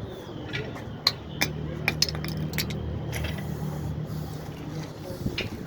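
Scattered sharp clicks and clinks of hard tools and fittings being handled during plumbing work. Under them, a low steady hum sets in about a second in and stops shortly before the end.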